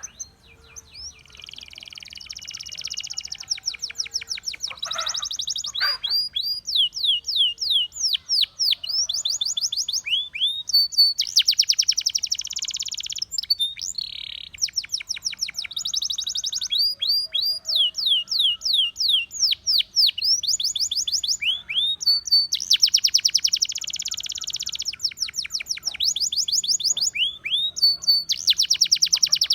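Domestic canary, a Russian singing canary, in full song: long phrases of rapid repeated notes, fast trills alternating with runs of quick sweeping whistles, with brief pauses between phrases.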